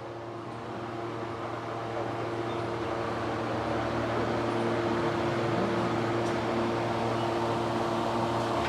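A motor running with a steady hum, holding one even pitch and slowly growing louder.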